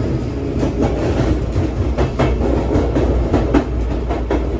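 Running noise inside a Sotetsu 9000 series electric train car in motion: a steady low rumble with wheels clicking over rail joints a couple of times a second.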